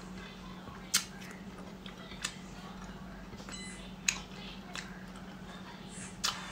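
A person chewing food with the mouth closed: a handful of short, sharp mouth clicks and smacks, spaced a second or two apart, over a faint steady hum.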